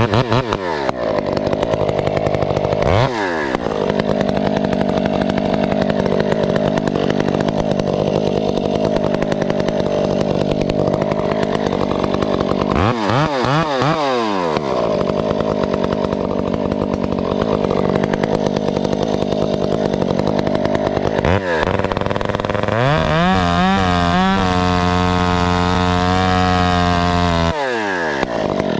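Husqvarna 372XP two-stroke chainsaw cutting through a tree, its engine pitch dropping under load and picking up again several times. Near the end it runs at a steady pitch, then drops away as it stops.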